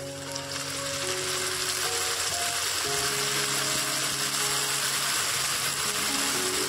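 Tomato paste sizzling in hot oil in an iron kadai, the sizzle starting as the paste hits the pan and building over the first few seconds, then holding steady. Background music with a melody plays over it.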